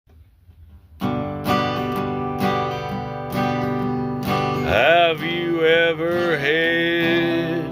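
Country song intro: an acoustic guitar starts strumming chords about a second in. About halfway through, a sliding melodic line that looks like a voice comes in over it.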